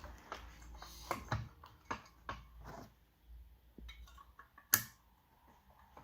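Scattered light clicks and knocks of pool-pump parts being handled while the impeller is fitted and tightened on its shaft, with one sharp, louder click nearly five seconds in.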